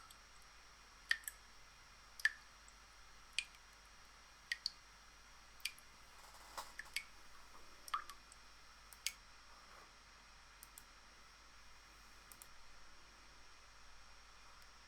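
Computer mouse clicking: about a dozen sharp clicks at uneven intervals, a few in quick pairs, thinning out in the second half.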